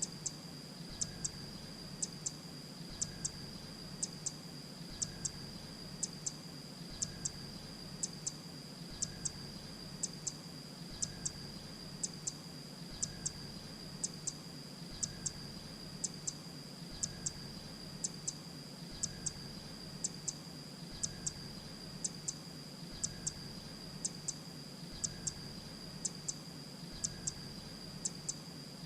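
Grey-breasted prinia calling: short, sharp, high notes in quick pairs and triplets, repeated evenly about once a second as a looped lure recording for calling the bird in. A steady high tone runs underneath.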